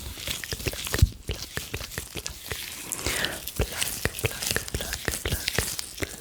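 Close-miked ASMR mouth sounds: a quick, irregular run of wet clicks and pops ("plug & flic"), mixed with the rustle of gloved hands.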